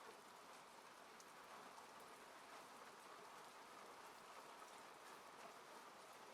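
Faint, steady rain falling on a car, heard from inside the cabin, with scattered light ticks of single drops.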